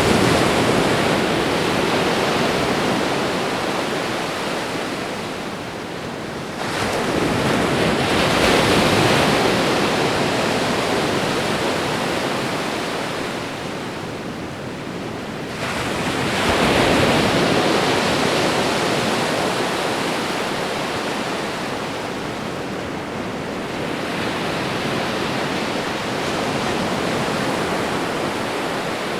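Ocean waves breaking and washing up the shore: a steady rush of surf that swells about every eight to nine seconds, with three clear surges that each fade slowly.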